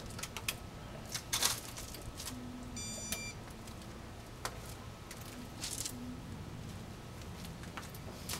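A single short electronic beep about three seconds in, among a few soft clicks and handling noises, over a faint steady hum.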